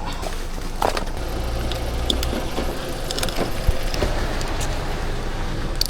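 A car engine running, with a steady low rumble that is strongest in the first half, over scattered light clicks and small knocks.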